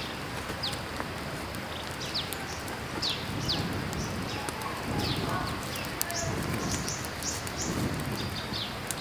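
Wild birds chirping, many short, quick notes that sweep downward in pitch, over the steady rush of a running creek.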